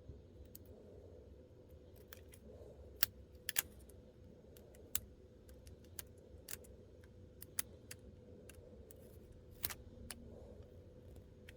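Irregular sharp little clicks and snips of small plastic miniature pieces and their packaging being handled and opened, about a dozen in all, a few louder than the rest, over a faint steady hum.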